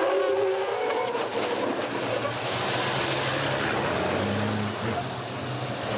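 Truck engine running steadily, a low hum under a layer of hiss that grows a little louder about four seconds in.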